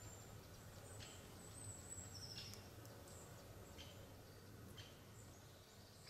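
Faint woodland ambience: scattered short, high bird calls and chirps over a low, steady background hum.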